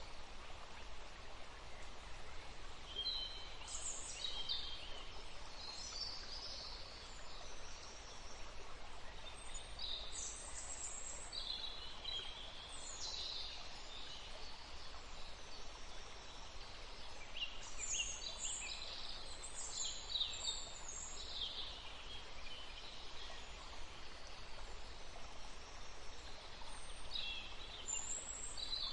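Songbirds chirping and singing in short high phrases, several at once, over a steady background hiss.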